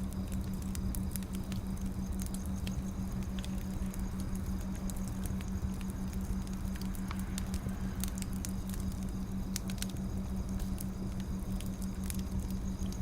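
Burning firewood crackling, with irregular sharp pops and snaps scattered throughout, over a steady low hum.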